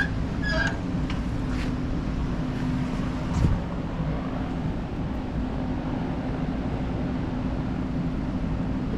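Steady low engine rumble with a constant hum, as from an idling vehicle, and a single dull thump about three and a half seconds in.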